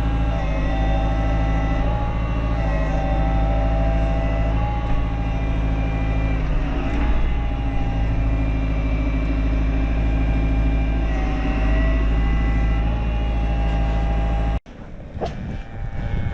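Tractor engine running steadily at a constant speed while a round bale of hay is put out. The engine sound cuts off abruptly near the end, giving way to quieter, uneven noise.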